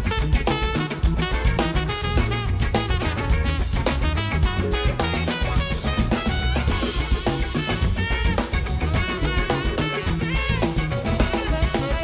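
Live blues-rock band playing an instrumental passage: a drum kit and bass keep a steady groove under a lead line whose notes bend and glide in pitch.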